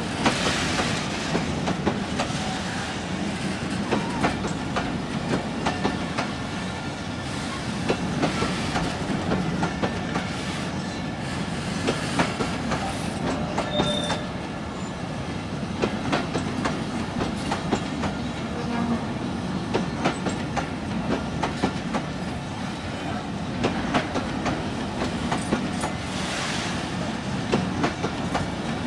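Oil tanker freight train's tank wagons rolling past at close range, their wheels clacking over the rail joints in a steady run of clicks over a rumble. There is a brief wheel squeal about halfway through.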